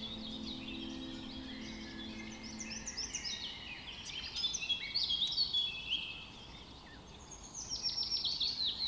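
Several songbirds chirping and trilling together in quick, overlapping high calls, busiest in the middle, with a run of rapid falling notes near the end.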